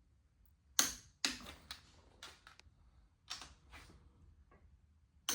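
Sharp metallic clicks and taps from hand tools and engine parts being handled, about eight at uneven intervals, each ringing briefly.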